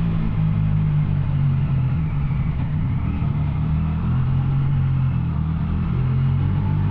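Yamaha Tracer 900's three-cylinder engine running steadily through an Arrow exhaust, its pitch shifting slightly a few times.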